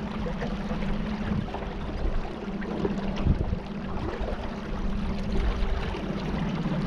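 Small boat motor running steadily with a low hum, over the wash and splash of river water.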